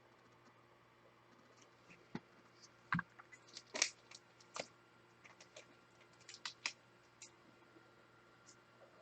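Faint, scattered clicks and taps of trading cards being handled, slid and set down, coming in a cluster between about two and seven seconds in.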